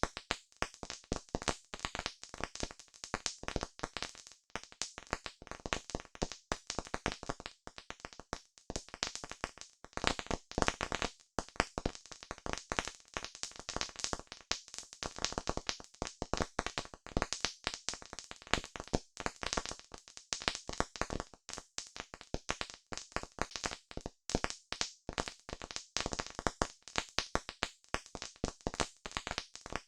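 Campfire crackling: dense, irregular pops and snaps of burning wood, some louder than others.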